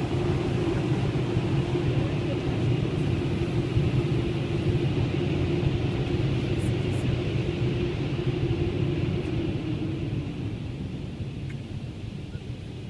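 Steady machine rumble with a low hum from an automatic car wash, heard from inside a car. It fades over the last few seconds.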